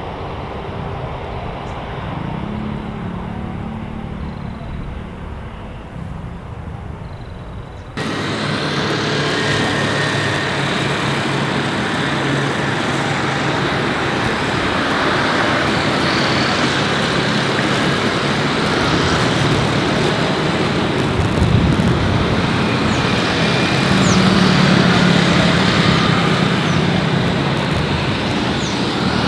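Steady engine and traffic noise, outdoors, that jumps abruptly louder and brighter about eight seconds in, where the recording cuts.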